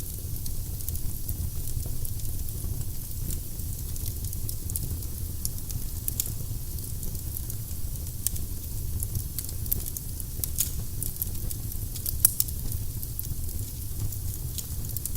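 Firewood burning in a fireplace: a steady low rumble of flames with frequent small crackles and pops, and one sharper pop about twelve seconds in.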